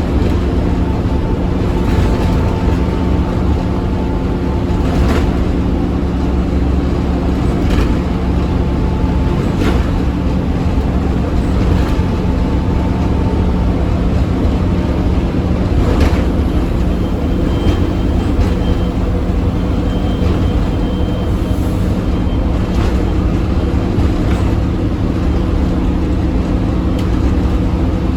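Scania OmniCity bus engine running steadily at speed, a steady low drone that holds its pitch, with a few sharp clicks now and then.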